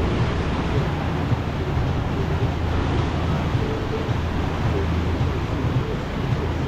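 Steady low drone of a tour boat under way, its engine running, with wind rushing on the microphone.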